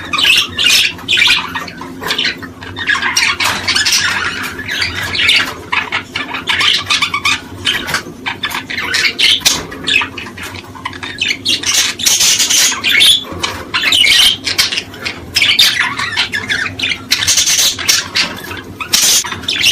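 A flock of small cage birds chattering and chirping nonstop, with many quick, overlapping calls and sharp chips.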